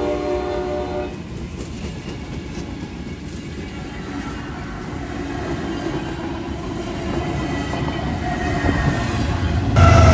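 Freight locomotive's air horn sounding a chord, cutting off about a second in, followed by the steady rumble of the passing train, which slowly grows louder. Near the end the sound jumps suddenly to a louder train rumble with a slightly falling tone.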